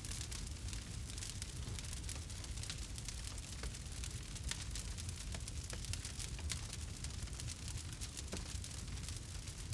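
Campfire burning, wood crackling with many small sharp pops over a steady low rumble.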